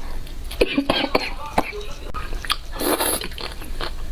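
Close-miked eating sounds: chewing with sharp clicks in the first couple of seconds, then a brief rushing noise about three seconds in that lasts just under a second.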